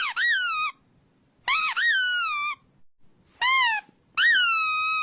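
A series of high-pitched squeaks, played to get a reaction from a listening dog. There are four of them, each jumping up in pitch and sliding down, and the last is drawn out and held for over a second.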